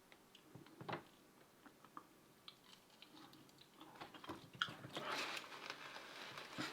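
Close-up mouth sounds of chewing fried food: scattered small wet clicks and crunches, growing denser about four seconds in.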